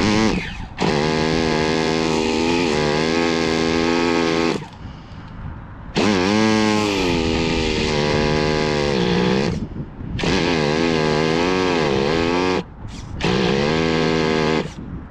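Electric starter box cranking a Nova Mega SX21 nitro RC engine in four separate tries of a few seconds each, its whine wavering in pitch as the engine turns over against compression; the engine does not fire yet.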